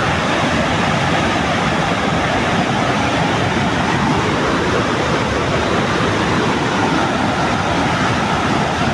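Loud, steady rush of the main falls of Victoria Falls, a large waterfall in high flow.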